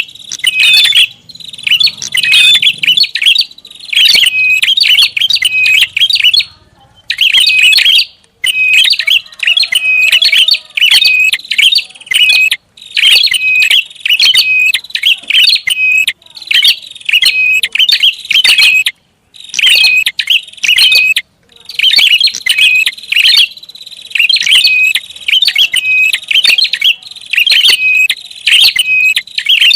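Prinia (prenjak) lure call: loud, rapid chirping phrases repeated in bursts separated by short pauses.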